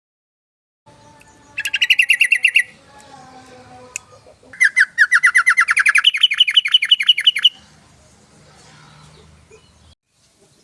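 Yellow-vented bulbul (trucukan) singing two fast, rattling runs of repeated notes. The first is short; the second is longer and steps up in pitch partway through.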